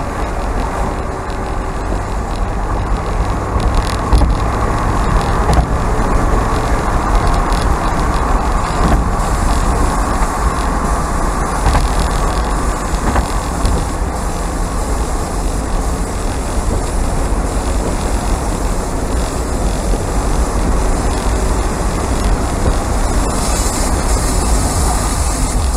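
Mazda MX-5's four-cylinder engine running while driving, mixed with steady road noise.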